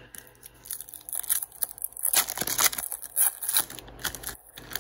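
Trading-card pack wrapper crinkling and tearing while cards are handled: a run of irregular crackles and rustles.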